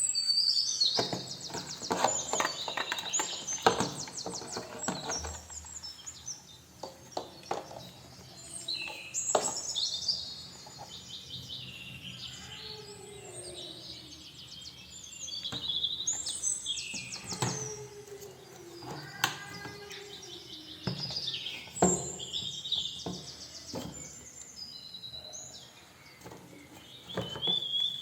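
Small birds chirping and trilling again and again in high, rapid runs, with scattered sharp clicks and knocks in between.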